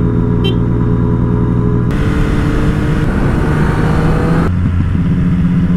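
Yamaha MT-09 SP's inline three-cylinder engine running steadily under way. About two seconds in a loud rush of wind noise cuts in abruptly while the engine note climbs as the bike accelerates; about a second before the end the wind rush cuts off and a steady engine note remains.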